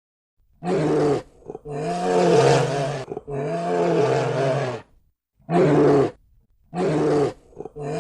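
Big cat roaring: a series of deep roars, some short and some drawn out for about a second and a half, with brief pauses between them, starting about half a second in.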